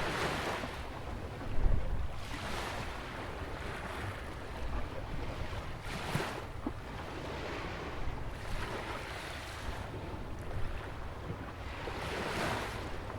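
Small Atlantic waves breaking and washing against a rock jetty, swelling and easing every few seconds, with wind rumbling on the microphone. A low thump comes about a second and a half in.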